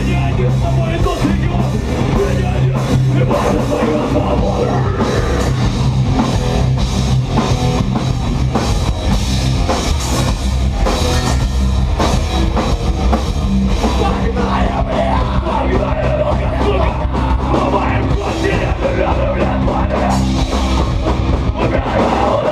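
Live rock band playing loudly, with drums, bass and guitars.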